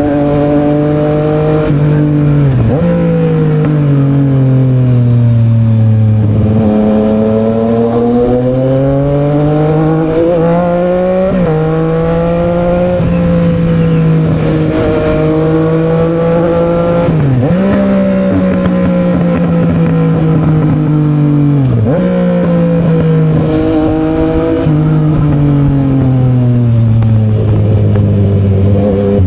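Yamaha XSR900's inline-three engine through an SC Project exhaust, heard from the riding bike. Its pitch climbs and sinks with the throttle and dips sharply about five times as gears change.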